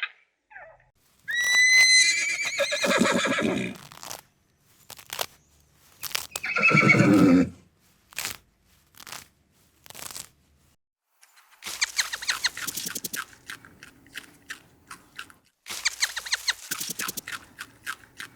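Horse whinnying: a long, high call starts about a second in, and a second, lower call falls in pitch around six seconds in. In the second half comes a run of quick clicks and crunches.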